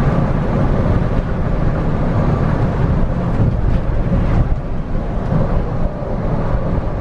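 Scania coach driving at speed, heard from inside: a steady deep engine and road rumble.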